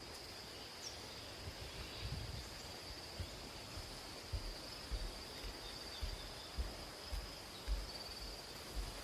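Insects calling in one steady high-pitched drone over a soft outdoor hiss, with scattered soft low thumps.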